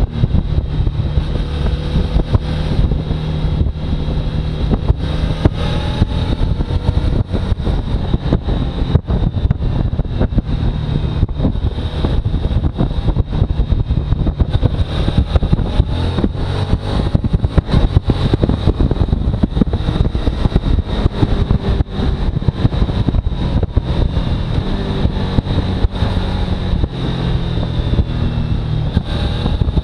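Suzuki V-Strom motorcycle engine running under way, mixed with constant choppy wind buffeting on the microphone.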